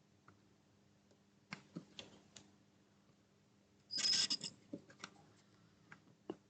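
Small clicks and taps of soldering tools working on a PS4 HDMI port pin, with a brief louder scratchy burst about four seconds in, over a faint steady hum.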